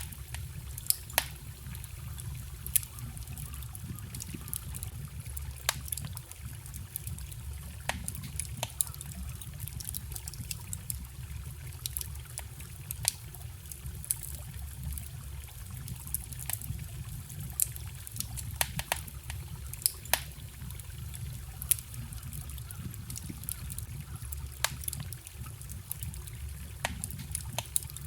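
Wood fire crackling, with sharp pops every second or two, over the steady trickle and low rush of a small forest stream.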